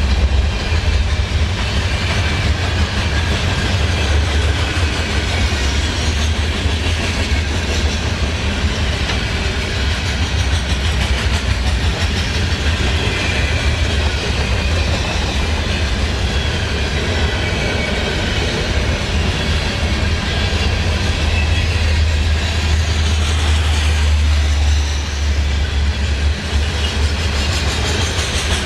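Freight train cars rolling past: a steady, loud rumble of steel wheels on rail with clickety-clack over the rail joints.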